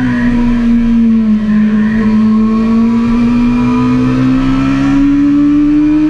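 Sport motorcycle engine running hard at track speed, its pitch sagging as the throttle eases through a long turn, then rising steadily as the bike drives out of it, over a rush of wind noise.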